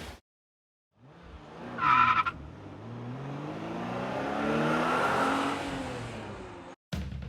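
Car tyres squeal briefly about two seconds in, then a car engine runs with its pitch and level swelling and then easing off, as if the car speeds past. The sound cuts off abruptly near the end.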